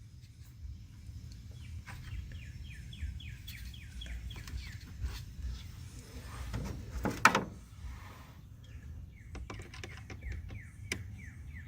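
A bird chirping in two quick runs of short descending notes. Between them comes a brief rustle or scrape about seven seconds in, and a few light clicks follow, over a steady low rumble.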